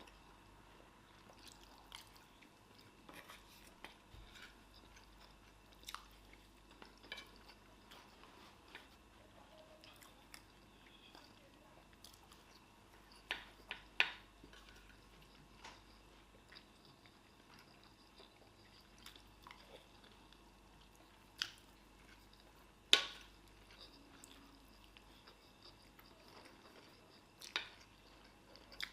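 People chewing and biting as they eat fast, with scattered soft clicks and a few louder sharp clicks spread through.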